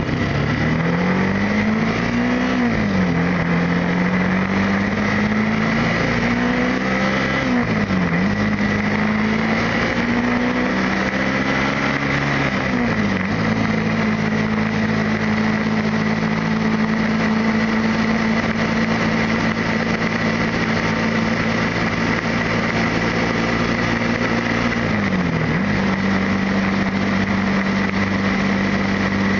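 Motorcycle engine pulling up through the gears: the engine note climbs and drops sharply at each of three upshifts. After that it holds a steady pitch at cruising speed, with one short dip and return about three-quarters of the way through.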